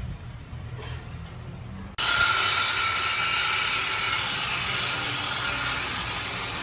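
A power tool starts abruptly about two seconds in and runs steadily, cutting through the exhaust pipe to remove the mid mufflers.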